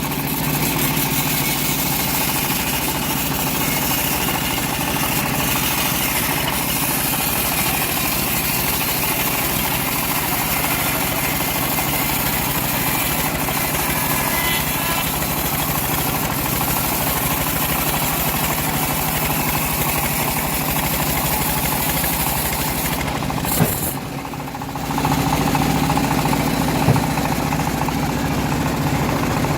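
Homemade bandsaw mill running steadily while sawing teak, with a steady low engine-like hum under a broad sawing hiss. Shortly before the end the sound drops briefly and then resumes, a little lower and fuller.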